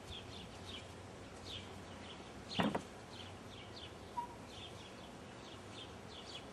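Small birds chirping repeatedly in the background, short falling chirps a few to the second, over a steady outdoor hiss. One brief louder sound comes about two and a half seconds in.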